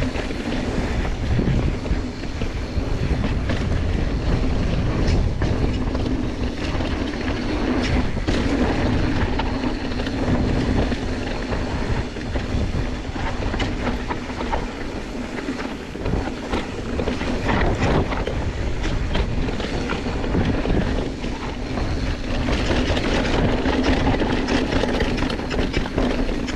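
Mountain bike descending a dirt trail: a steady rumble of tyres on dirt and wind on the camera, with many small clicks and rattles from the bike over rough ground.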